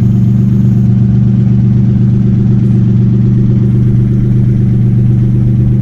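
Engine running at a steady speed, giving a constant low drone.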